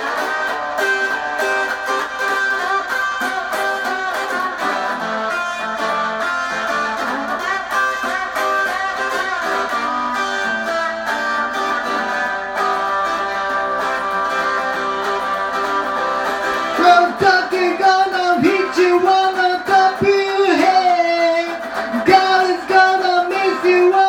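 Rockabilly band music with guitar in an instrumental break between vocal verses. The playing turns louder and choppier about seventeen seconds in.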